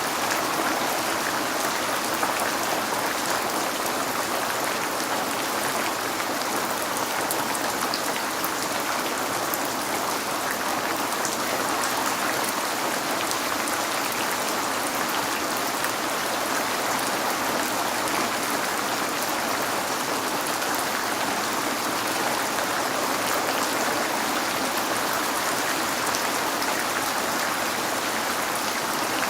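Steady rain falling, a constant even hiss with scattered small drop ticks. The video presents it as rain on a window.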